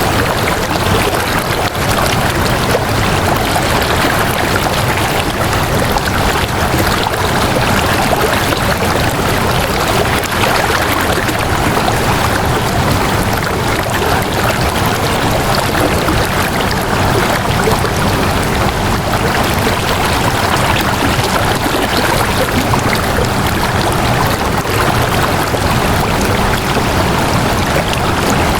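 Flowing water, a steady unbroken rushing wash.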